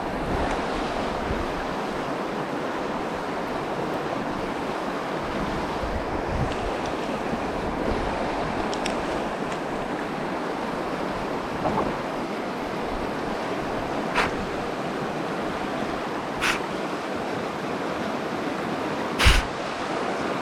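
Steady rushing of a fast-flowing mountain stream running over rocks and through pockets. A few short, sharp knocks come in the second half, the loudest near the end.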